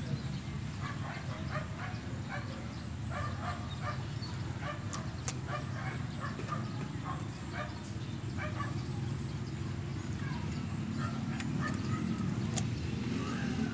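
A person eating, chewing crunchy cucumber with a few sharp crunches, over a steady low hum. Short animal calls repeat in the background throughout.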